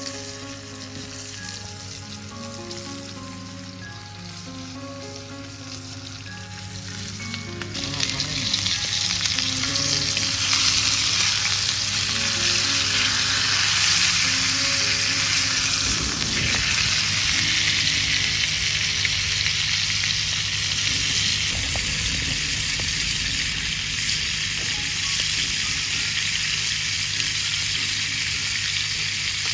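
Food frying in oil over an open wood fire, sizzling. The sizzle is light at first and turns loud and hissing about eight seconds in, on heat that is running very high.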